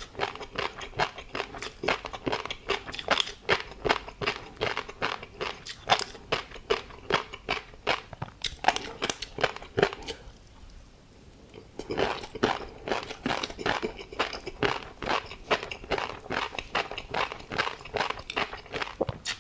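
Close-miked chewing of tobiko (flying fish roe) with a crunchy seafood topping: a dense run of small pops and crunches, stopping for about two seconds midway before going on.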